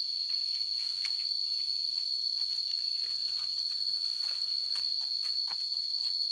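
Insects singing in one steady, high-pitched unbroken tone, with scattered light clicks and taps over it.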